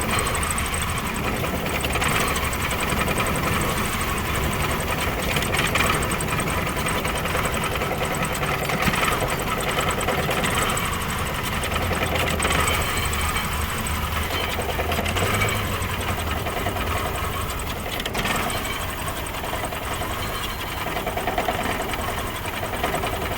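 Car engine idling roughly and jerking, its running uneven rather than smooth. The scan tool's only code points to a faulty intake air temperature sensor, which the mechanic takes for the cause of the violent shaking.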